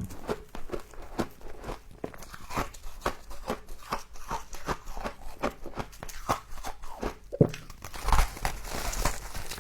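Rapid crisp crunching and chewing of humidifier frost being eaten, about two to three bites a second. Near the end it gives way to a denser crackling crunch.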